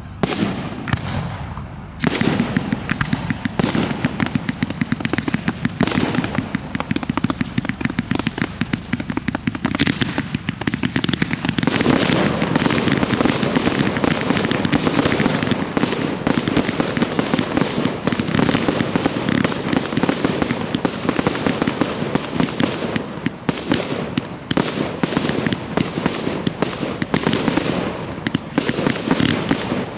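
Professional fireworks display: a dense, continuous barrage of bangs and crackle. It picks up about two seconds in and grows heavier and fuller from about twelve seconds on.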